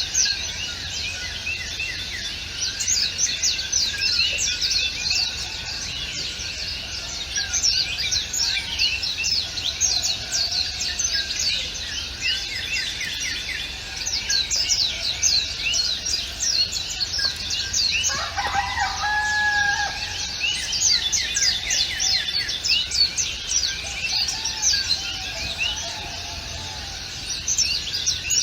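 Dense chorus of many small birds chirping rapidly and continuously, with a lower, longer call from another bird about two-thirds of the way through.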